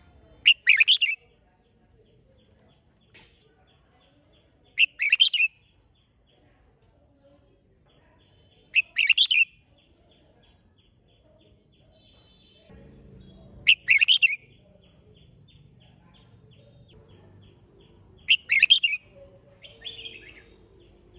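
Red-whiskered bulbul singing: five short, loud song phrases about four seconds apart, with faint rapid chipping notes between them.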